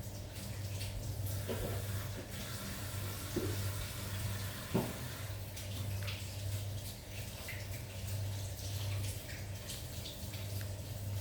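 Cats eating tongkol fish: small wet chewing and smacking clicks, irregular, over a steady low hum.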